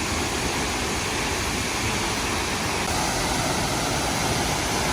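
Tad Yuang waterfall rushing: a steady, even roar of falling water.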